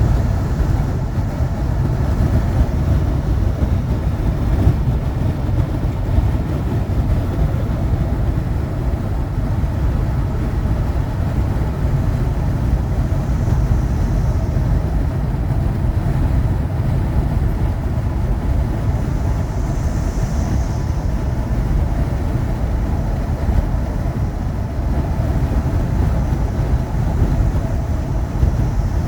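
Steady road and engine rumble heard from inside a moving vehicle's cab. Twice, about halfway through and again a few seconds later, the faint high buzz of cicadas in roadside trees swells up and fades as the vehicle passes them.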